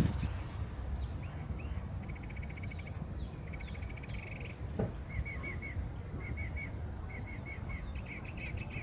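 Songbird singing: rapid trills and quick sweeping notes, then a run of short repeated notes from about halfway through, over a steady low outdoor rumble.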